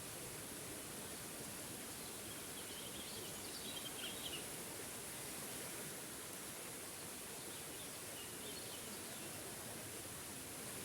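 Small forest waterfall rushing steadily, with a songbird chirping twice over it, at about three seconds in and again, more faintly, at about eight seconds in.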